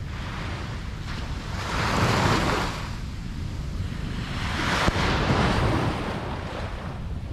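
Ocean surf on a beach: waves break and wash in, swelling twice about three seconds apart over a steady low rumble.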